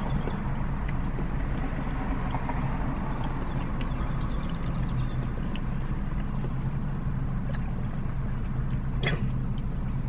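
Steady low mechanical hum, like an engine idling, with a few faint clicks, the clearest about nine seconds in.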